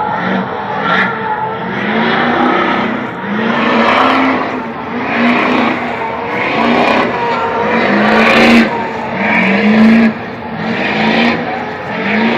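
Vehicle engines revving up and back down in quick repeated blips, one after another, with a sharp loud burst of noise about eight and a half seconds in.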